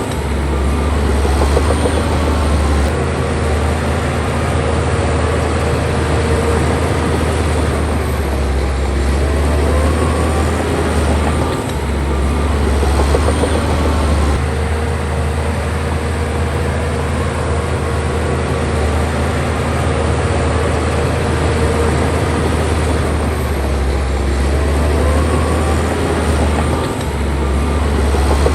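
Bulldozer's diesel engine running steadily at working load, a deep continuous drone whose sound shifts every few seconds as the machine works.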